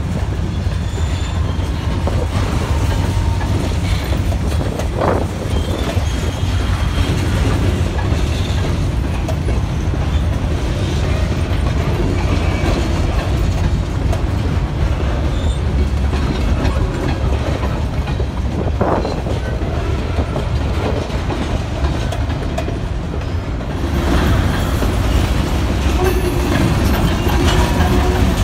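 Freight train of covered hopper cars rolling past: a steady low rumble of steel wheels on the rails, with two brief sharper noises along the way. It grows louder near the end.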